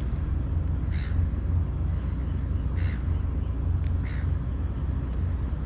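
A bird calling three times, short calls a second or two apart, over a steady low rumble.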